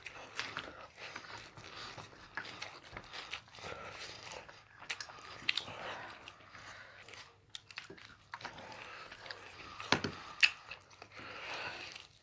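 Chewing and biting food: a run of small crunches and clicks, with two louder knocks about ten seconds in.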